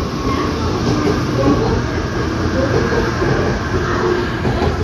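JR Kyushu 787 series electric express train pulling out and moving past close by, its wheels and running gear loud and steady on the rails.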